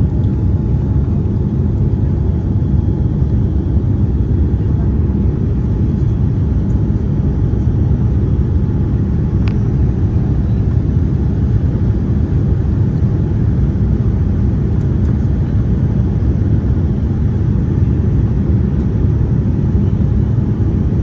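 Steady low rumble of a Boeing 787-9's GEnx engines and rushing air heard from inside the passenger cabin, with a faint steady hum on top. A single faint click about halfway through.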